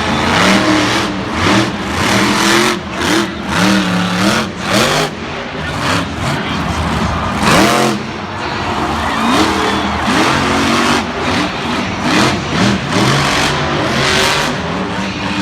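Monster truck's supercharged V8 engine revving hard again and again, its pitch repeatedly rising and falling back.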